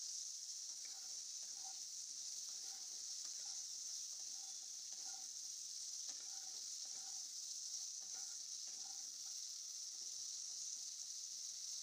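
Cut okra frying in hot oil in a non-stick kadhai: a steady sizzle, with a wooden spatula stirring and scraping the pan in light strokes a little more than once a second.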